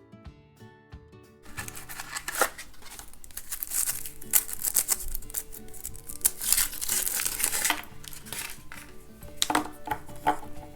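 Foil wrapper of a chocolate surprise egg being crinkled and torn open, starting about a second and a half in, over light guitar background music.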